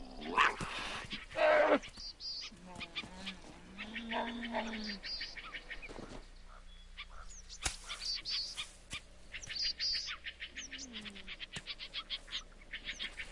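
Birds chirping, with quick rapid trills in several runs. In the first two seconds come two short, harsh, loud animal sounds.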